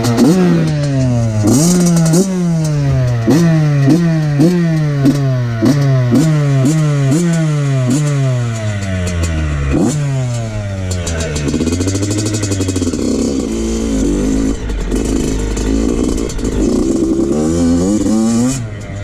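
2014 Yamaha YZ85's two-stroke engine revving up and down over and over, each rev climbing sharply and then dropping, about one and a half times a second. In the second half the rises and falls become slower and longer.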